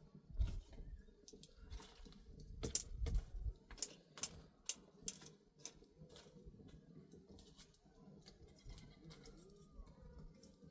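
Irregular sharp clicks and taps, about a dozen in the first six seconds, then fewer and fainter over a low rumble.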